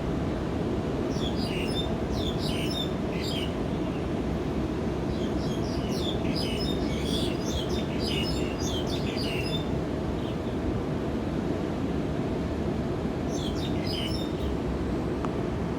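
Small birds chirping in three spells of quick high notes, over a steady low background rumble that is the loudest sound throughout.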